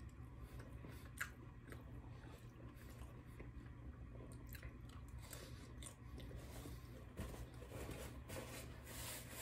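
Faint chewing of a mouthful of pepperoni pizza, with scattered small clicks.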